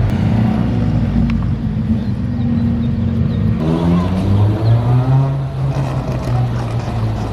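Car engine running at idle, then revved about three and a half seconds in, its pitch rising before settling into a steady, slightly higher run.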